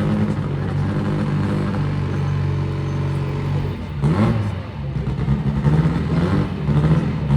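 Drag car engine idling with a steady note, blipped once in a quick rev about four seconds in, then settling back to idle.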